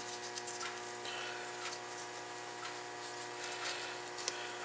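Faint light clicks and rubbing from hands working a new rubber caliper seal and coating it with brake fluid, over a steady background hum; one slightly sharper click about four seconds in.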